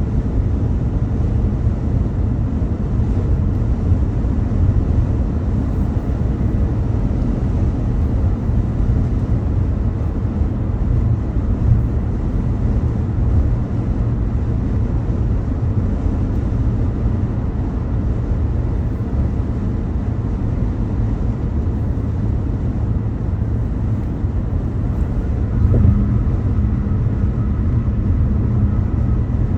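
Steady low rumble of a car driving along a highway: tyre and wind noise. A faint tone joins in near the end.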